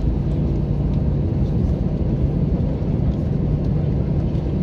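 Steady low rumble inside the cabin of an Airbus A321-200 taxiing after landing, its engines running at idle.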